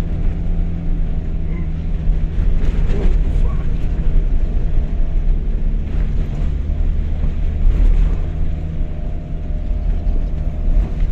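Two-wheel-drive Toyota HiLux engine running steadily at a constant pitch as the ute drives over a rough dirt track, with heavy low rumble and a few short knocks from the body and suspension over bumps.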